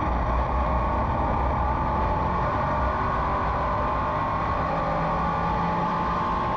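SK Modified race car's V8 engine running steadily on track, heard from the car, its note sagging slightly and rising again.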